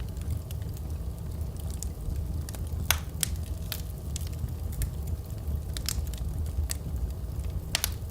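Wood fire burning in a fireplace: a steady low rumble of flames with irregular sharp crackles and pops, the loudest about three seconds in and again near the end.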